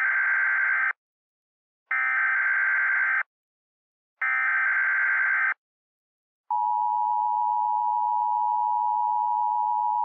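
Emergency Alert System SAME header: three short bursts of buzzing digital data, each just over a second long with about a second's gap between them. About six and a half seconds in, the steady two-tone EAS attention signal starts, which announces that an alert message follows.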